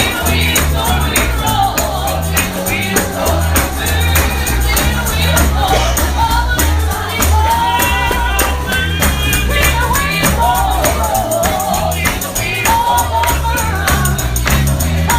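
Gospel song sung by several voices with a tambourine shaken and struck in a fast steady rhythm over a walking bass line.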